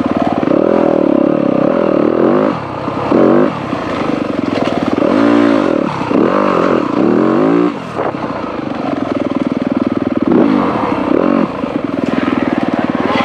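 Dirt bike engine revving up and down as it is ridden along a trail: the pitch rises and falls repeatedly with the throttle and gear changes, with brief drops when the throttle is closed.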